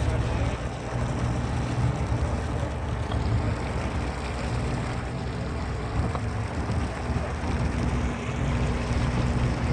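Boat engine running steadily with a low hum.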